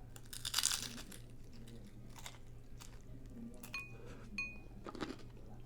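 A bite into a crunchy taco boat shell, followed by chewing with scattered crunches. Two short ringing clicks come about four seconds in.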